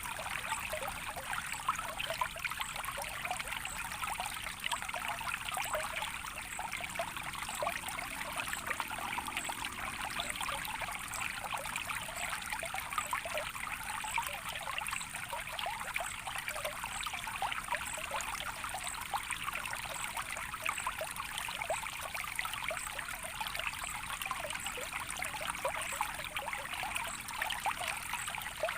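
A small stream of water flowing steadily, with a continual fine babble.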